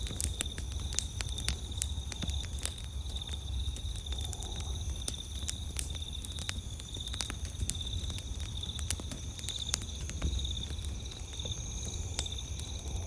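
Campfire crackling, with frequent irregular sharp pops, over a steady pulsing high trill of night insects.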